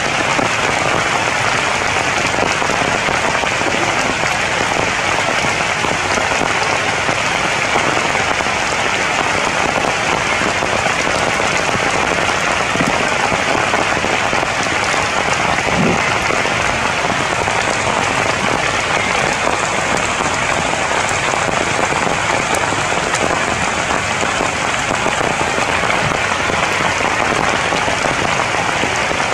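Steady rain falling on the leaves of a tree canopy, an even hiss of drops.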